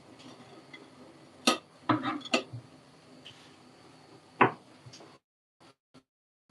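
A few sharp knocks and clinks of dishes and cutlery, loudest near the end. The sound then drops out to silence in patches.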